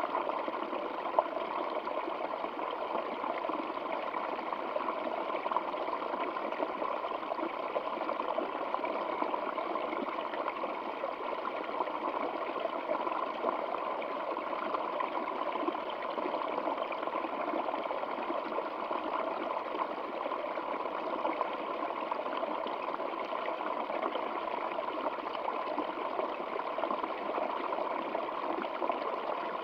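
Small stream of water flowing and trickling, a steady, unbroken babble.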